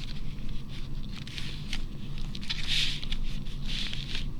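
Paper being handled and shuffled on a work surface: light crinkles, taps and soft sliding swishes, over a steady low hum.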